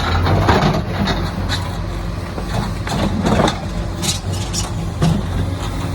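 Hydraulic excavator's diesel engine running steadily at high throttle, with a few short sharp knocks about four to five seconds in.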